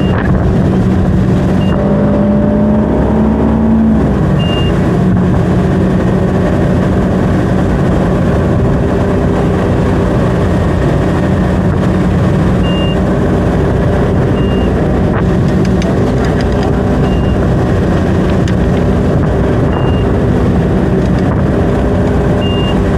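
Ski boat's engine running steadily under load while towing a slalom skier, with short high beeps every few seconds.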